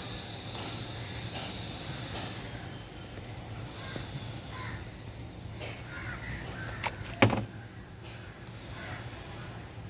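Two sharp clicks about seven seconds in, the second the louder, over a steady low hum.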